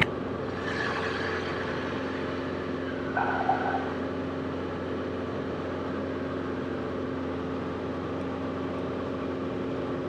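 Steady drone of a Cessna 172RG's four-cylinder Lycoming O-360 engine and propeller during the climb after takeoff, heard from the cockpit. A short mid-pitched sound comes about three seconds in.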